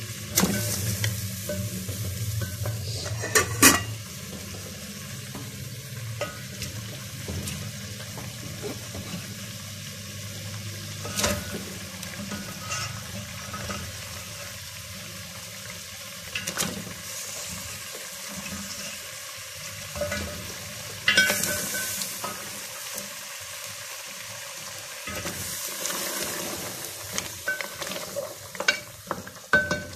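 Half-cooked mutton trotters (paya) dropped into hot oil and masala in a metal pot, sizzling as they go in, for the frying (bhunai) stage. A wooden spoon knocks sharply on the pot rims several times, and the sizzle swells in spells, loudest near the start and again after about twenty seconds.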